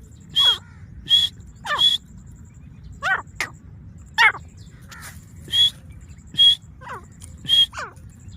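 Grey francolin calling over and over: loud, harsh high notes alternating with shorter notes that slide downward in pitch, about one note every half second to second.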